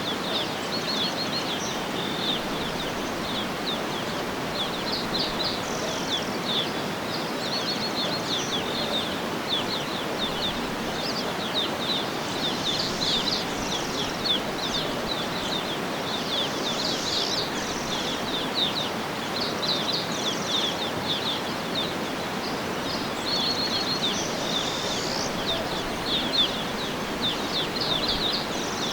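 Birds chirping and trilling in quick, repeated runs of high notes over a steady rushing background hiss of outdoor ambience.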